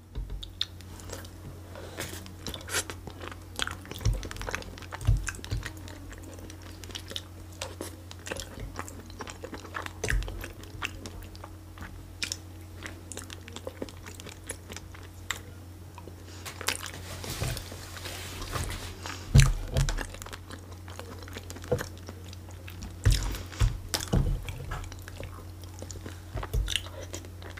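Close-miked chewing and biting of food, with scattered crunches and small irregular clicks over a steady low hum.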